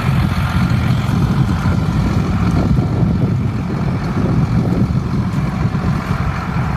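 Hino diesel engine of a dump truck idling steadily, with a low, even rumble.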